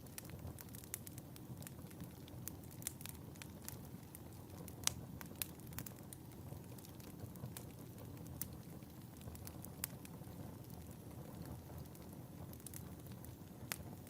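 Wood fire burning in a fireplace: a low steady rumble of flame with irregular sharp crackles and pops, the loudest about five seconds in.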